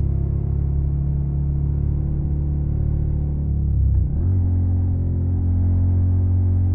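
Suzuki SV650 V-twin through a Yoshimura Alpha carbon exhaust, running at a steady engine speed. About four seconds in the note briefly dips, then settles into a new steady drone.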